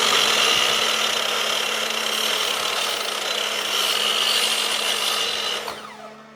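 Handheld electric power tool running at full speed, with a dense, high-pitched noise. Near the end it is switched off and its motor spins down with a falling whine. A steady electrical hum sits underneath.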